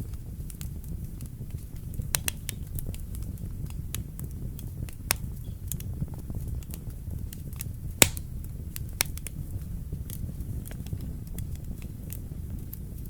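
Wood fire burning in a fireplace: a steady low rumble of flames with scattered crackles and sharp pops. The loudest pop comes about eight seconds in.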